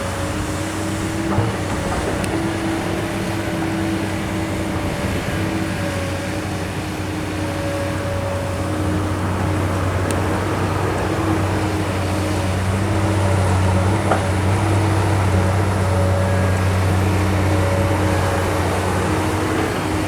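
Kobelco SK200 hydraulic excavator's diesel engine running under load as it digs, a steady low drone with a higher hydraulic whine that comes and goes. Two brief knocks, one about a second in and one about fourteen seconds in.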